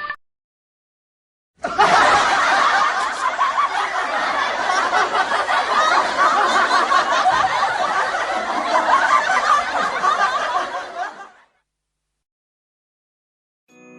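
A canned laugh track: a crowd laughing and chuckling for about ten seconds. It starts abruptly about a second and a half in and cuts off abruptly near eleven seconds.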